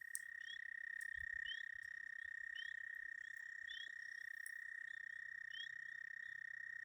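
A toad, most likely an American toad, giving one long, steady, unbroken trill. Short rising peeps from frogs repeat about once a second over it.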